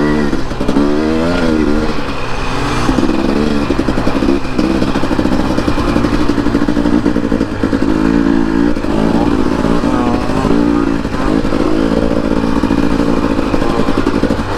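Dirt bike engine being ridden hard, revving up and down again and again, its pitch rising and falling with throttle and gear changes.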